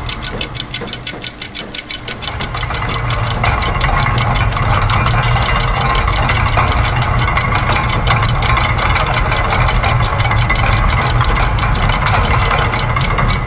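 Layered loops of factory machine sounds: a fast, even train of mechanical clicks over a low steady machine hum, a little weaker and choppier for the first couple of seconds.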